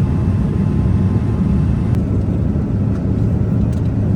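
Steady low rumble of jet engines and airflow heard inside an airliner cabin, with a faint click about two seconds in.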